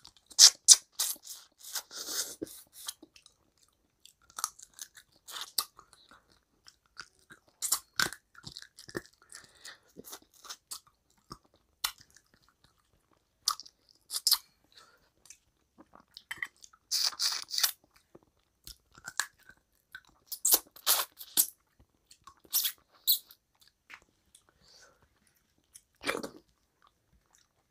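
Close-miked chewing of mutton curry with rice eaten by hand: irregular bouts of sharp, wet mouth clicks and smacks with short pauses between them.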